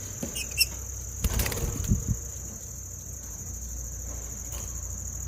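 Steady high-pitched insect trill, crickets or similar, with a couple of brief high chirps near the start. A few low thumps about one to two seconds in, over a steady low rumble.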